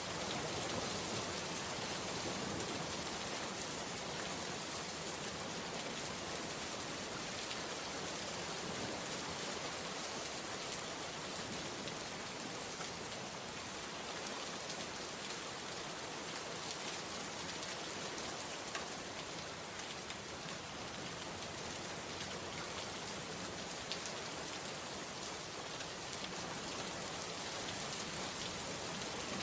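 Steady rain falling, a dense even hiss of rain with scattered individual drops pattering on a surface.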